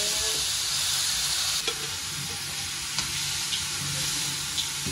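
Marinated chicken masala sizzling as it hits hot oil in a frying pan. The sizzle eases a little about a second and a half in, and a few light taps of the utensil on the pan come as it is stirred.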